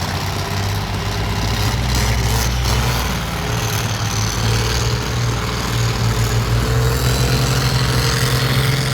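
Heavy truck engine running steadily, a continuous deep drone with no sharp events.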